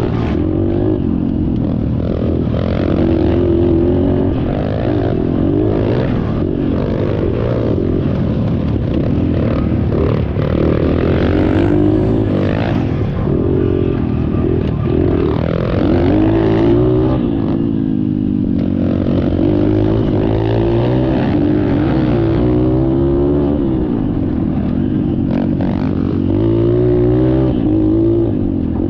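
Dirt bike engine running while riding, its pitch rising and falling continually with the throttle.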